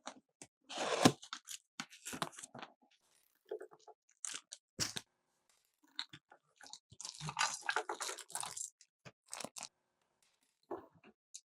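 Toy packaging being handled and opened: irregular crinkling and tearing of plastic wrap, broken up by sharp clicks and taps of plastic toy parts, with the longest crinkly stretch near the end.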